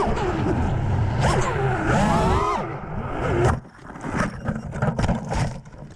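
FPV miniquad's brushless motors whining, the pitch sweeping up and down with the throttle, then cutting off abruptly about three and a half seconds in. Scattered scrapes and knocks follow.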